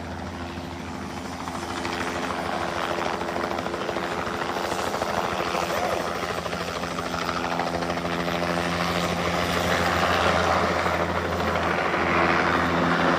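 Helicopter rotor and engine running steadily, growing gradually louder as it comes in to land.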